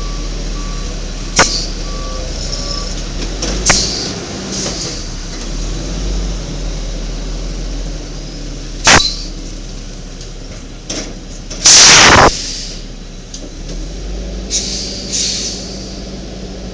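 Automated side-loader garbage truck running at a steady low idle, its backup beeper sounding in the first few seconds. A few sharp metallic knocks follow, and near 12 s comes a loud half-second hiss of its air brakes.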